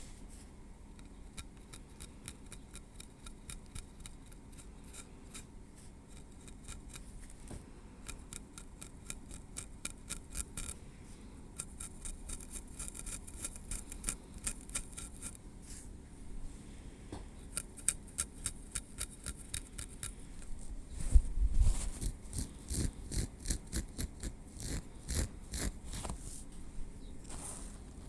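Metal tweezers working through hair against the scalp, making rapid light clicks and scratches in dense runs. About three-quarters of the way through, the clicks become louder and heavier.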